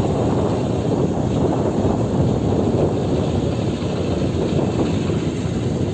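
Steady low rumbling noise of a vehicle on the move, with no clear engine note standing out.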